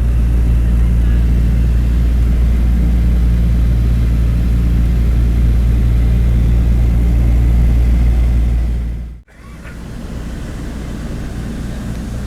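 Douglas DC-3's twin radial piston engines droning steadily, heard inside the cabin in flight. About nine seconds in the sound cuts off abruptly and resumes as a quieter stretch of engine drone.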